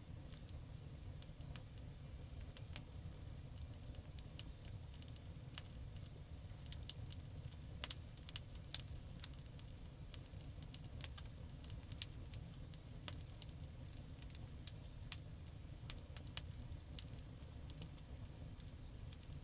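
Campfire burning, crackling with frequent sharp pops over a steady low rumble. The pops come thickest about halfway through, with the loudest snap just after that.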